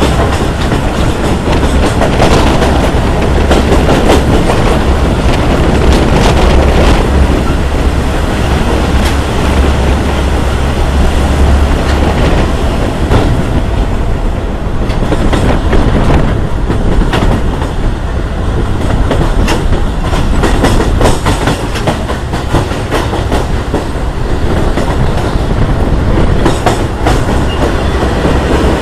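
Passenger train running along the track, heard from an open window of a moving car: a loud, steady rumble and clatter of wheels on rails, with scattered sharp clacks.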